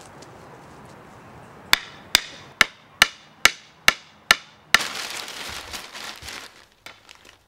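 A hammer striking eight quick, evenly spaced blows, a little over two a second, each with a short ringing tail. A rustle of newspaper pages follows.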